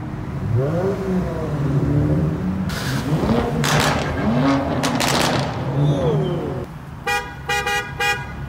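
Car engines revving, their pitch rising and falling, with loud bursts of hiss in between, then a car horn honking four short times near the end.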